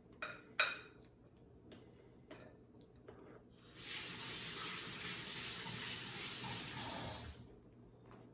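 A couple of light knocks, then a kitchen tap runs for about four seconds and is shut off.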